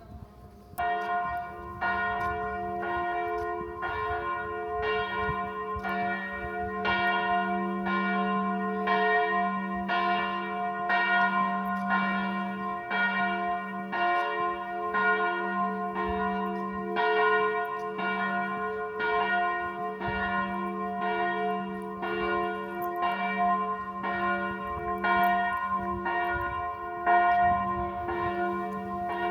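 Church bell ringing, starting suddenly about a second in, with strokes repeating evenly about one and a half times a second over a sustained ringing hum.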